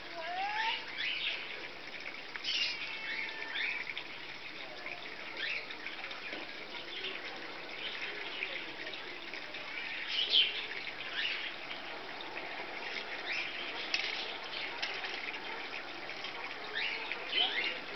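Birds chirping and calling, with many short sweeping chirps; the loudest comes about ten seconds in.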